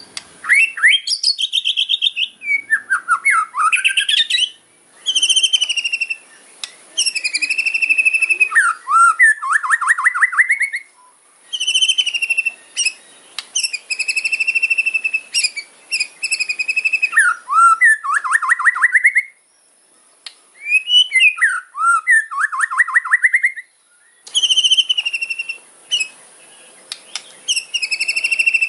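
White-rumped shama (murai batu) singing its aggressive 'kretekan' fighter song: loud phrases of rapid rattling trills, held whistles and quick up-and-down swoops, with short pauses between them.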